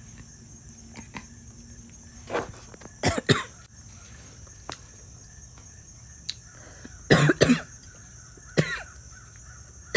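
A woman coughing in four short sharp bouts, the later ones doubled, as she chokes on a bite of corn.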